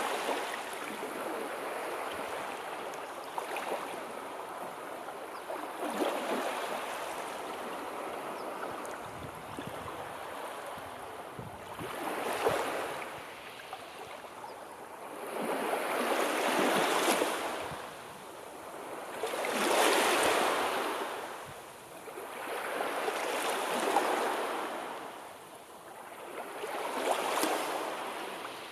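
Sea waves washing in: a steady rush of water that, from about halfway, swells and falls away every three to four seconds.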